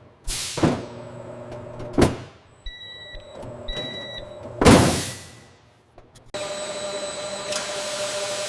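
A sound-design sequence: three swooshing whooshes, two short electronic beeps between them, then a steady mechanical hum with a few constant tones that sets in about six seconds in.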